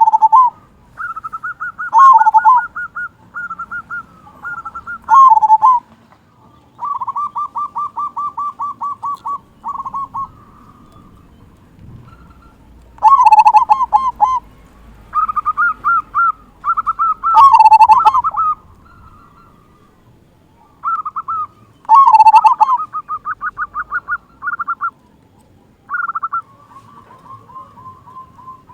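Zebra dove (perkutut) singing its cooing song, over and over. Each phrase is a quick run of rapid rolling notes that ends in a few loud, deep 'kung' notes.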